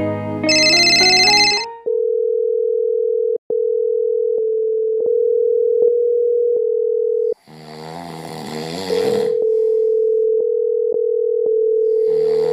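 A short electronic ringtone melody ends, then a telephone dial tone sounds: one steady hum-like tone with a few faint clicks. About halfway through, a rough rasping noise cuts in, and the dial tone returns under it.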